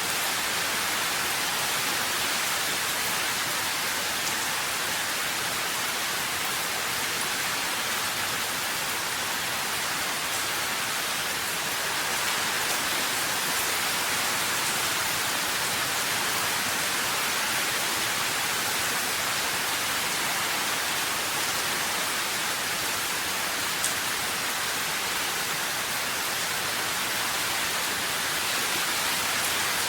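Steady rain falling, a dense even hiss without thunder or pauses.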